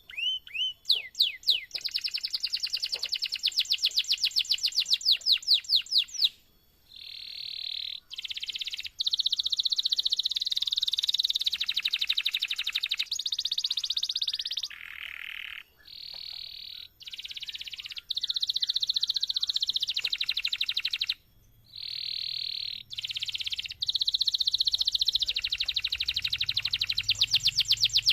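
Domestic canary singing long, vigorous song: a string of rapid rolling trills, each phrase a fast run of repeated notes lasting a second to several seconds. Each phrase breaks off abruptly into the next at a different pitch, with brief pauses between some of them.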